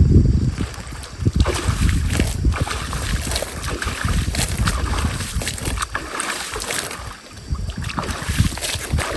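Fast-flowing stream water rushing and splashing, with a low, gusty rumble of wind buffeting the microphone.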